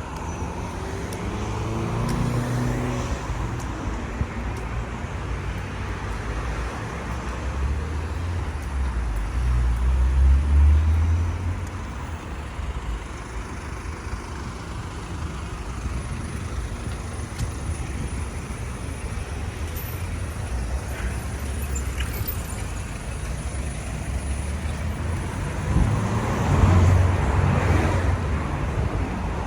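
City street traffic with cars passing close by, the loudest passes about ten seconds in and again near the end. An engine's pitch rises in the first few seconds as a vehicle pulls away.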